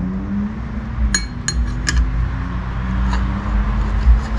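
Metal automatic-transmission parts clinking together as they are handled, with a quick run of three or four sharp clinks between one and two seconds in and a lighter one later, over a steady low hum.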